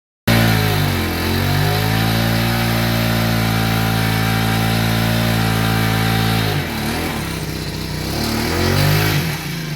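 Small four-stroke engine of a power sprayer pump running fast. Its speed dips and recovers about a second in, then holds steady. About six and a half seconds in it drops to a lower, unsteady speed, then picks up again near the end.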